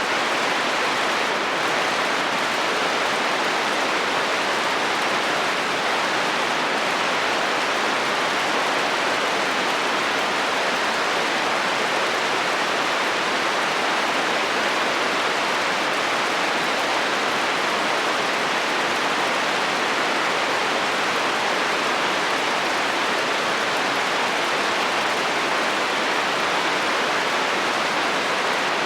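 Steady heavy rain drumming on a metal roof, an even dense hiss with no thunder or individual impacts standing out.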